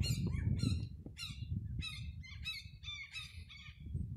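Birds calling: a rapid string of short, overlapping chirps, several a second, over a low rumble.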